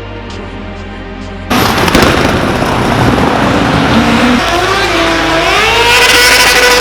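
A loud car engine cuts in about a second and a half in, then revs up, its pitch climbing and then holding high near the end.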